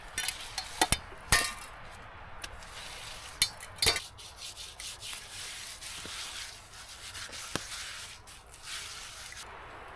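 Hand work on building materials: rubbing and scraping, broken by several sharp knocks, the loudest about a second and about four seconds in.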